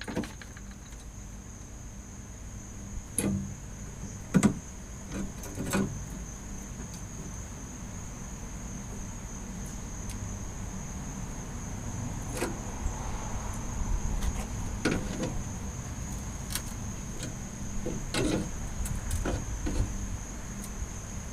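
Scattered sharp clicks and knocks, the loudest about four and a half seconds in, over a steady low rumble that grows slowly louder and a faint high-pitched whine.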